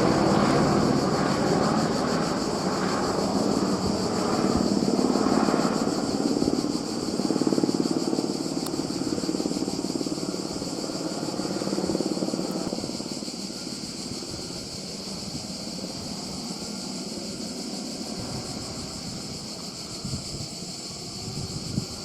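Airbus AS350 helicopter's rotor and turbine noise fading away over the first half, as it flies off. Under it runs a steady, high-pitched chorus of buzzing insects.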